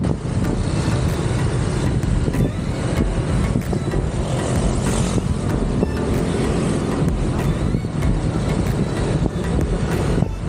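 Steady engine and road noise of a motorcycle riding along a road.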